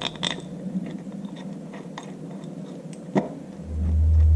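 Light metal clinks and a sharp knock as a cast-iron PTO housing is slid over its shaft and seated onto the tractor. Near the end a loud, steady low rumble starts and keeps going.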